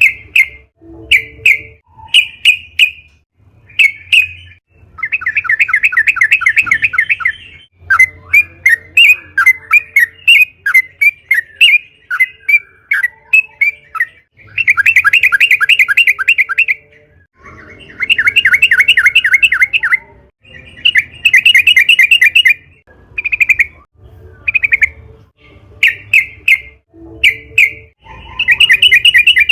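Yellow-vented bulbul (trucukan) singing: a string of short, loud chirping phrases broken by four long, fast rolling trills.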